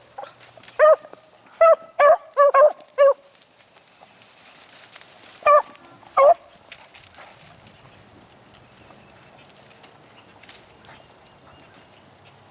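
Beagles barking on a rabbit's trail: a quick run of short barks, then two more a few seconds later, before the pack falls quiet.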